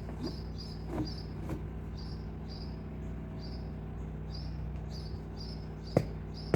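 A short high chirp repeating about twice a second over a steady low hum, with two sharp knocks near the end.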